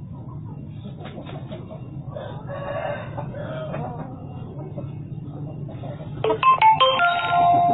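A rooster crowing once near the end: a few short broken notes, then a long held note. Before it there is a steady low hum and some faint calls.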